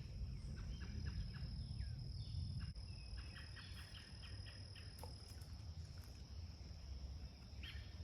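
Insects droning steadily at one high pitch, with quick short chirps in clusters over it. A low rumble sits under the first few seconds and then fades.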